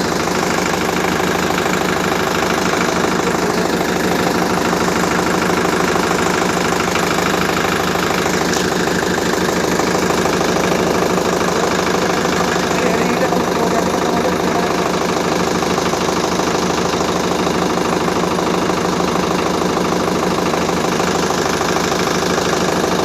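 An engine idling steadily, with an even, fast pulsing beat that holds unchanged throughout.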